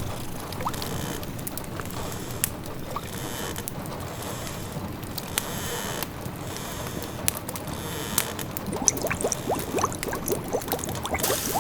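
A pot of food simmering and bubbling, with the bubbles coming thicker from about eight seconds in, over the scattered crackle of a wood fire and a steady hiss of rain.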